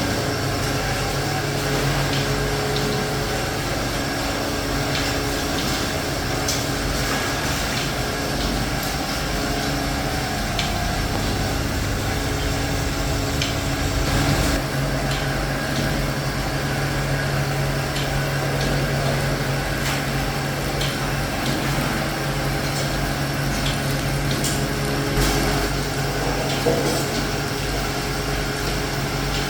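Factory machinery running with a steady hum, and scattered light clicks and knocks throughout.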